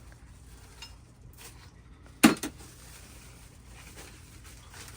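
Parts of a soundbar kit being handled and set down while unpacking: a sharp clank a little over two seconds in, followed at once by a softer knock, with faint small clicks around it.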